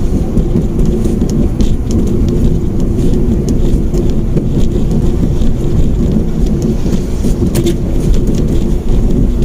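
A moving Mitsubishi Mirage hatchback's engine and road noise: a steady low rumble with a faint engine drone, and a few light clicks.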